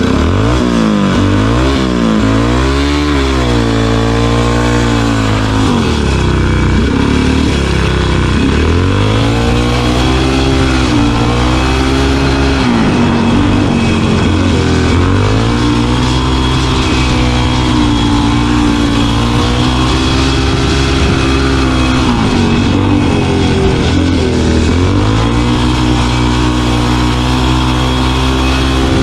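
A speedway bike's 500cc single-cylinder four-stroke methanol engine, heard as if riding it, revving hard and then falling away again and again. The pitch climbs as the throttle opens and drops sharply as it is shut, because the shut throttle is what slows the bike, which has no brakes.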